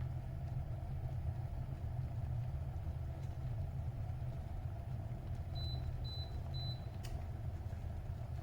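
Glass electric kettle heating water with a steady low rumble. Three short high beeps come just past the middle, then a sharp click.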